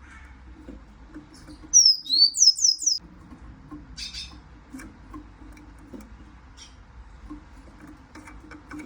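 Siskin calling: a quick run of loud, high chirps lasting about a second, starting about two seconds in, then a shorter chirp a second later. Faint scattered ticks and taps sound around it.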